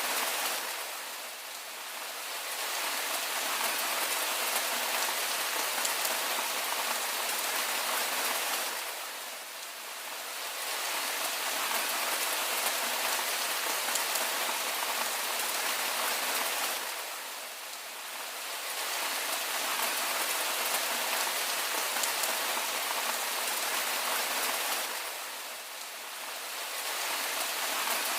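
Steady, dense rain falling, an even hiss that eases slightly for a moment about every eight seconds.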